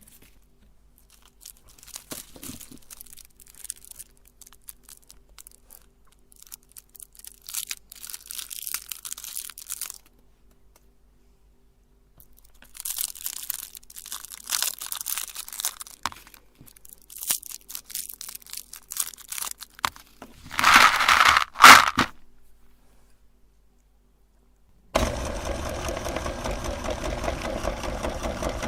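Crinkling and tearing of candy wrappers in irregular bursts, loudest about twenty seconds in. After a few seconds of quiet, an electric grinder's motor switches on about twenty-five seconds in and runs steadily.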